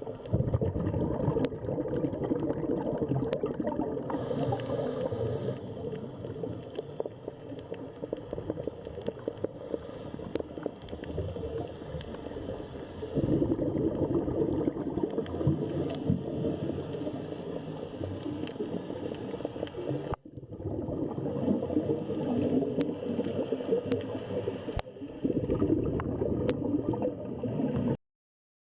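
Underwater ambient sound picked up by a submerged camera: muffled gurgling of moving water, with a few sharp clicks. It breaks off briefly about two-thirds of the way through and cuts off suddenly near the end.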